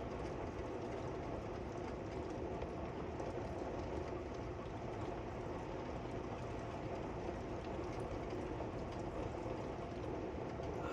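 Very heavy rain falling steadily, a dense even rush of noise.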